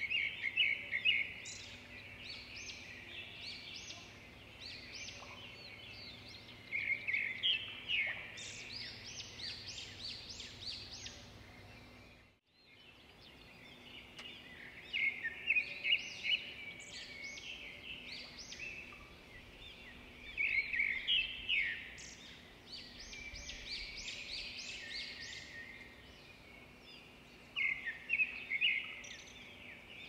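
Small birds chirping and twittering in repeated rapid bursts, with a brief gap about twelve seconds in.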